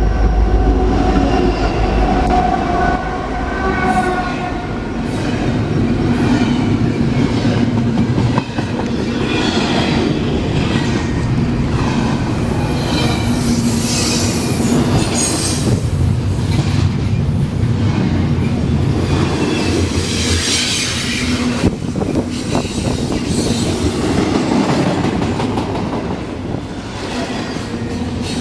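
Freight train rolling past close by, a steady rumble of wheels on rail with clicking over the joints and intermittent high-pitched wheel squeal.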